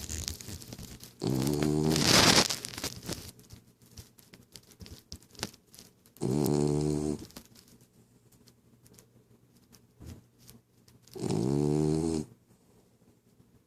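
A sleeping dog snoring: three rasping snores about five seconds apart, each about a second long. The first ends in a louder, breathy rasp.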